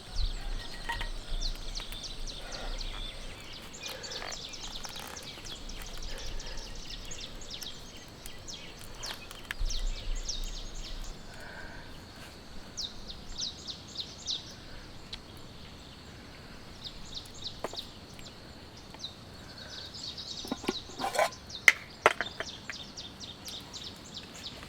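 Outdoor ambience of small birds chirping in quick repeated trills over a steady hiss. A few sharp taps near the end are the loudest sounds.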